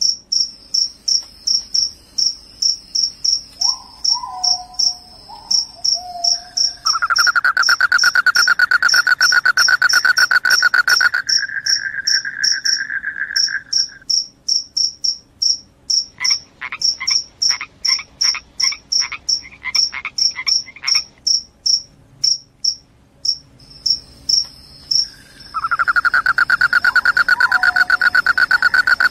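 Crickets chirping: a high, fast chirp repeating about four times a second throughout. A lower continuous trill joins it for several seconds at a time, and midway there is a slower run of lower chirps.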